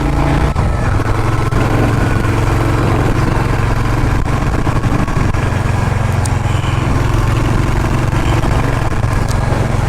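Motorcycle engine running steadily while riding along, a constant even drone.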